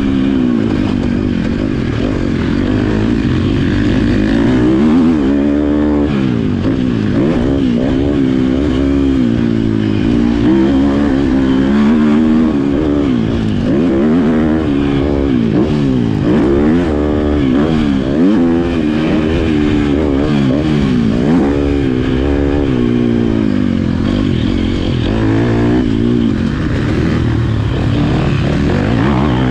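Motocross bike engine being ridden hard, its pitch rising and falling again and again as the rider opens and shuts the throttle and shifts gears.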